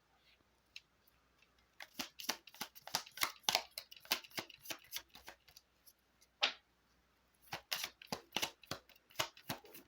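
A deck of tarot cards shuffled by hand: a quick run of card snaps for a few seconds, a single snap, then another run near the end.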